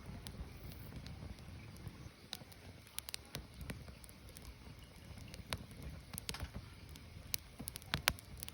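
Firewood burning, crackling with scattered, irregular sharp pops over a low steady rumble. The loudest pop comes about eight seconds in.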